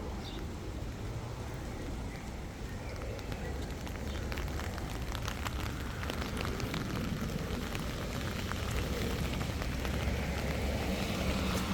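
Walking noise: a steady low rumble with scattered crackles and clicks from footsteps and the handheld recorder being carried.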